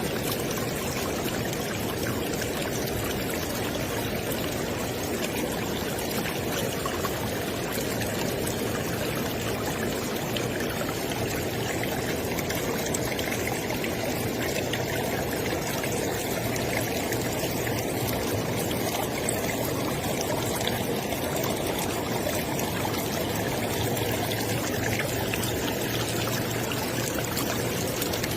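River water flowing steadily, a continuous rushing and splashing with no pauses.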